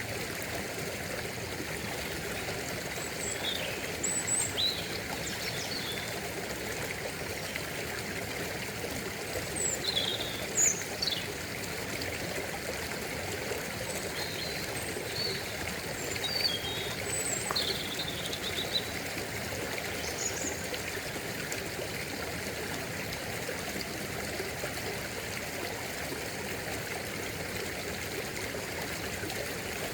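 Steady running water of a stream, with short bird chirps scattered through the first two-thirds, the loudest a little past a third of the way in.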